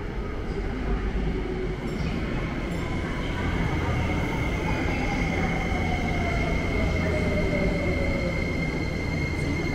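Tsukuba Express electric train pulling in, with a steady low rumble that grows louder and a motor whine that falls in pitch as it slows, under a steady high tone from about three seconds in.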